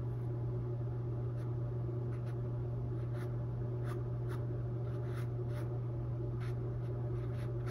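Small dry filbert brush dabbing and brushing paint onto a stretched canvas: short, soft scratchy strokes every half second to a second, over a steady low hum.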